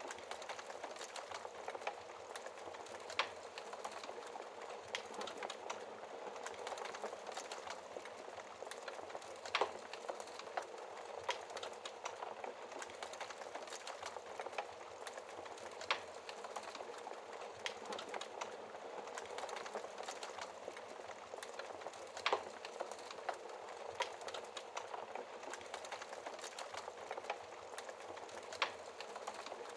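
Wood fire burning in a fireplace: a steady soft hiss with constant small crackles and a sharper pop every few seconds.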